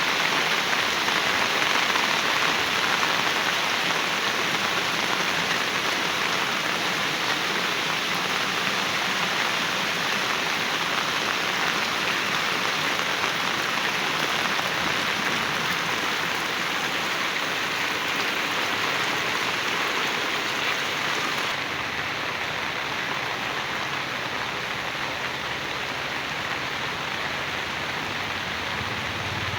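Heavy rain falling steadily, a dense even hiss with no thunder. Near the end it turns a little quieter and duller.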